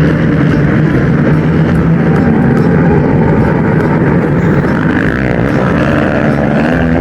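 Engine of an ATV (quad bike) running loudly and steadily.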